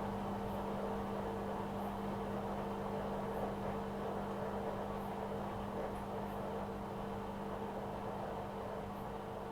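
Washing machine running with a steady hum and whir, with a few faint, irregular high ticks.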